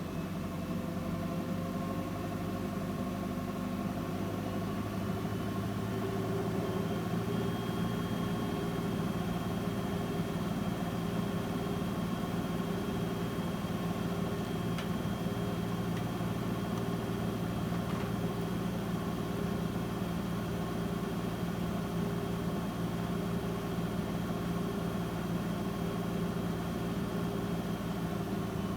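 AEG LS60840L washing machine spinning its drum at speed: a steady motor and drum hum that builds slightly over the first few seconds. A thin high whine joins about a quarter of the way through and holds steady.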